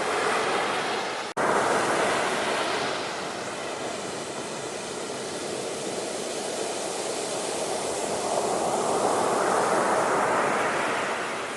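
Ocean waves washing in: a surge near the start, a sudden split-second cut-out a little over a second in, then another wave swelling and breaking later on.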